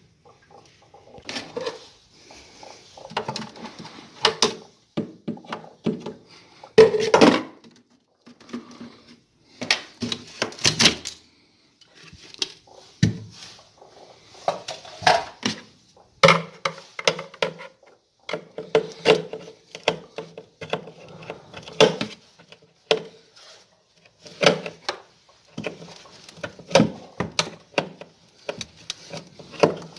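Hard objects being handled: irregular clinks, knocks and clatters, with louder bursts about 7 and 11 seconds in.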